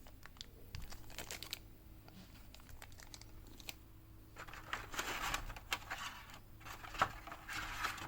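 Packaging being handled during an unboxing: a few small clicks and taps, then a longer spell of crinkling and rustling from a little after halfway on.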